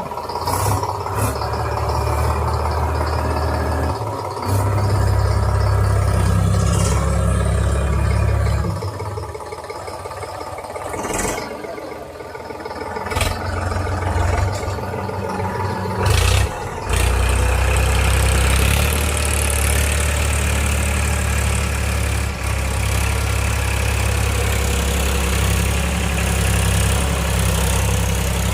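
Tractor diesel engine running, its sound swelling and easing as the throttle and load change, with a lull in the middle. A few sharp knocks are heard over it.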